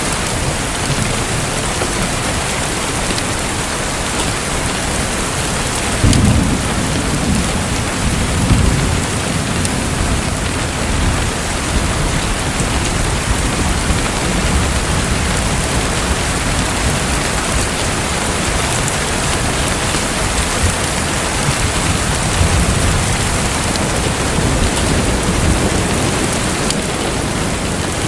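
Steady heavy rain, with low rumbles of thunder swelling about six and eight seconds in and again a little after twenty seconds.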